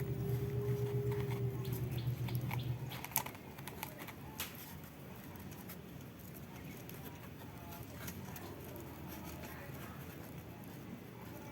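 A small electric motor hums steadily and winds down about three seconds in, followed by scattered light clicks and taps.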